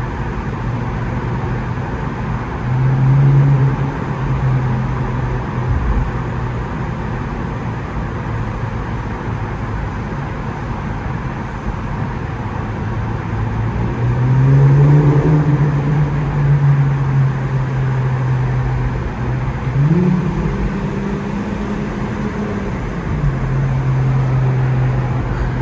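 Muffler-deleted Infiniti Q50 engine and exhaust droning at low revs in slow traffic. The pitch rises a few times as the throttle opens, highest about 20 seconds in, then settles back.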